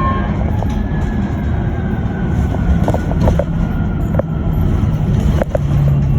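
Electric bus running, heard from inside the cabin: a steady low road rumble, with a thin whine that falls slowly in pitch over the first few seconds, and a few short rattles and clicks.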